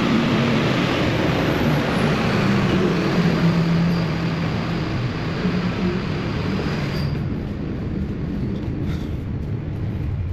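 Truck's diesel engine running, heard from inside the cab, under a loud rushing noise that cuts off sharply about seven seconds in, leaving the engine's lower hum.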